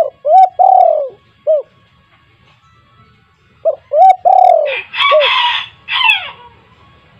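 Spotted dove cooing: two phrases of three or four short, low coos each, one at the start and one about four seconds in. A harsher, noisier call follows the second phrase, around five to six seconds in.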